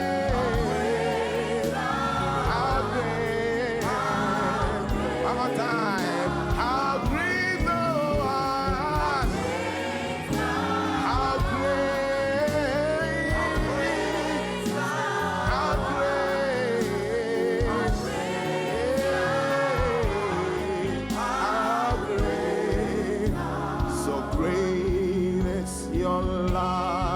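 Gospel worship music: voices singing long, gliding melodic lines over a steady instrumental backing.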